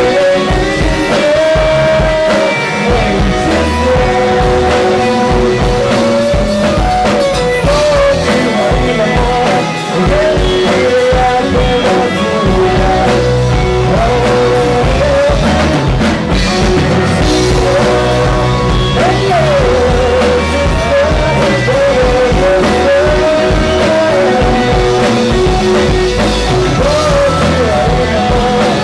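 Rock band playing: drums, bass and electric guitar, with a melody line above them that bends in pitch.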